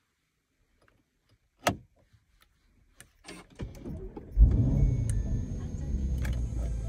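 A few sharp clicks from the red flip-up cover and start button, then the Lamborghini Urus's twin-turbo V8 cranks briefly and fires with a loud flare about four and a half seconds in, settling into a steady low idle.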